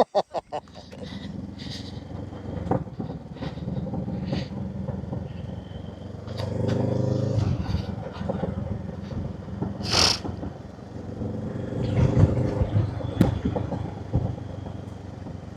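Motorcycle engine running as the bike pulls away, the revs rising twice, with scattered clicks and knocks.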